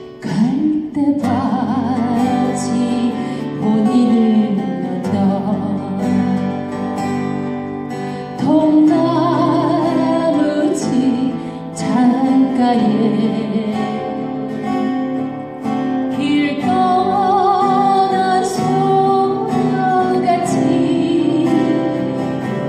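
A woman singing a Korean ballad live, accompanied by acoustic guitar.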